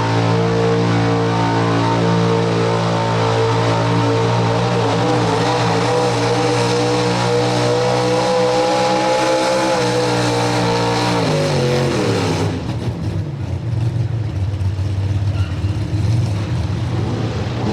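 Pro Street 4x4 truck's engine held at high revs under full load, its pitch climbing slowly for about ten seconds. It then winds down sharply to a lower, uneven rumble as the throttle comes off.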